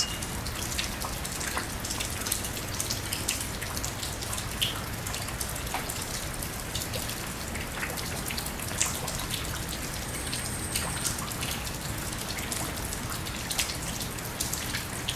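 Steady rain falling, with many separate drops and drips pattering throughout.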